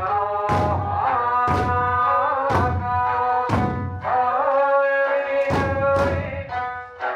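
Eisa taiko drums struck together about once a second over Okinawan folk music with sanshin and a singing voice, with a short break in the drumming past the middle.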